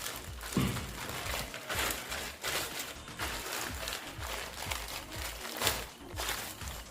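Irregular rustling and crinkling of a parcel's packaging being handled and opened, with a dull knock about half a second in.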